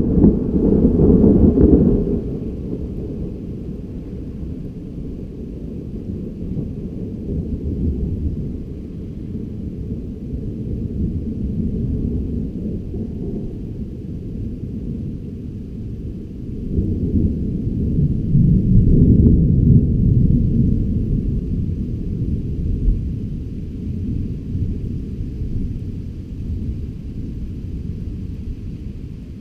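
Thunder rolling. A loud rumble in the first two seconds settles into a low, continuous rumble. A second long roll swells about seventeen seconds in and slowly dies away.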